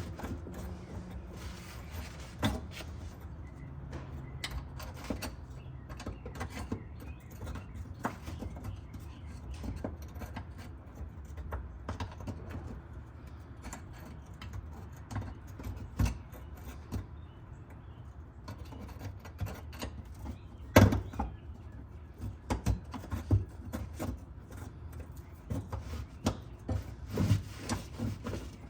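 Scattered clicks, taps and knocks of hand tools and metal parts being handled during work on a car, over a steady low hum. One sharper knock comes about twenty seconds in.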